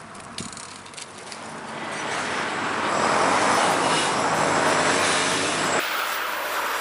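Road traffic: a vehicle passing close by, its noise swelling from about two seconds in and easing off near the end.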